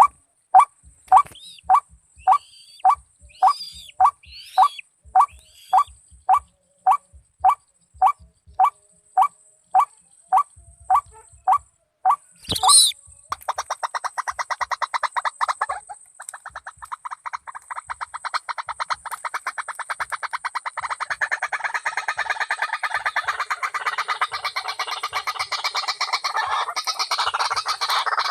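White-breasted waterhen calls, the lure call used for trapping it: one short note repeated evenly about twice a second. About halfway through comes a loud sharp sound. After it, a dense, rapid run of notes goes on to the end.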